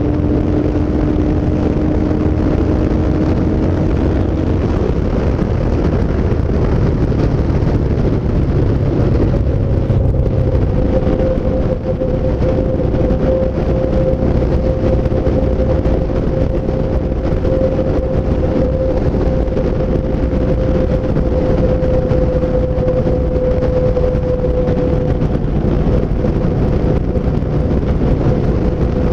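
Yamaha SCR950's air-cooled V-twin running at a steady cruising speed, with road and rushing noise around it. A steady whine holds through most of it, rising slightly in pitch about a third of the way in.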